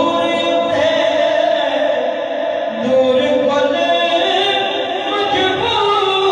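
Singing voices in long, held, gliding notes: devotional chanting with no spoken words.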